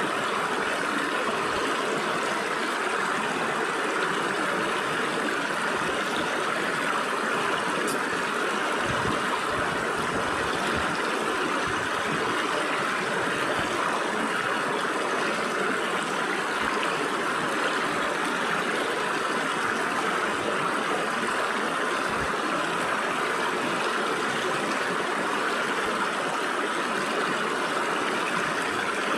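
Stream water flowing through gaps between rocks: a steady, even rushing.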